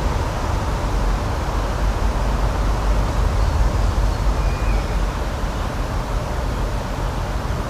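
Steady outdoor nature ambience: a continuous rushing noise with a deep, fluttering rumble underneath, and no speech.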